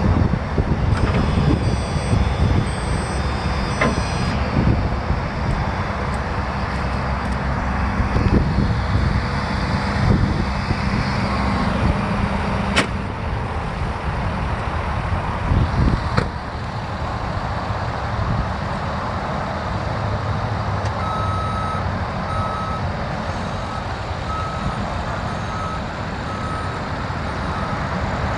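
Ford F550's 6.7L turbo diesel running steadily, with a couple of sharp knocks midway. In the last third a warning beeper sounds about once a second.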